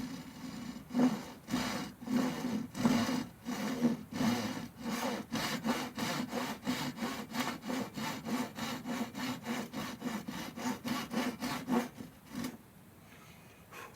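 Hand saw cutting through wood in a steady run of back-and-forth strokes, slow at first and then about three a second, stopping near the end.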